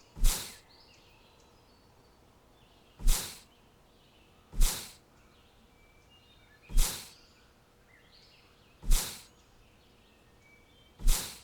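Six sudden, loud, noisy bursts at uneven gaps of about one and a half to two seconds, each dying away within half a second, with faint bird chirps between them.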